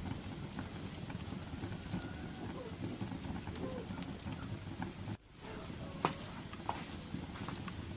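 Wood fire crackling: a steady low rumble of flames with scattered sharp pops, the loudest about six seconds in. The sound briefly drops out just after five seconds.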